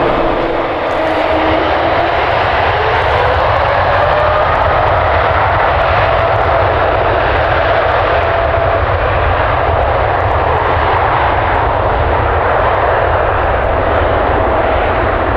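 Jet airliner engines running loud and steady at close range, with an engine whine that rises in pitch a couple of seconds in and then holds.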